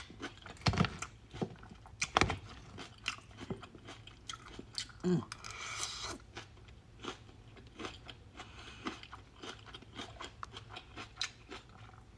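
A person chewing and crunching a mouthful of salad close to the microphone, in irregular crisp bites, the loudest crunches about one and two seconds in.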